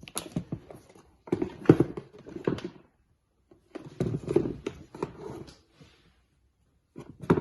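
Sneakers being handled: irregular clusters of knocks, taps and rubbing, in several bursts separated by short pauses.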